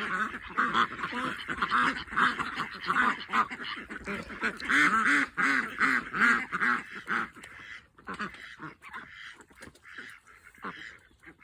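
Farm birds calling rapidly and over and over while being fed watermelon. The calls thin out about eight seconds in.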